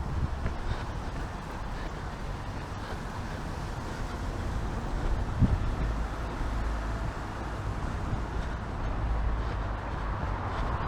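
City street ambience: a steady low rumble of traffic with wind noise on the microphone, and a single thump about five and a half seconds in.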